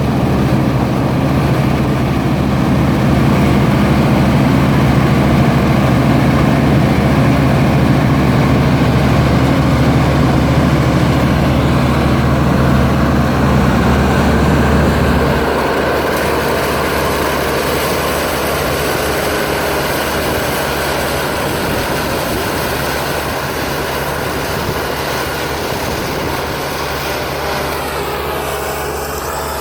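New Holland TX34 combine harvester running steadily with a deep engine rumble. About halfway through, the deep rumble drops away suddenly, leaving a thinner, slightly quieter machine sound.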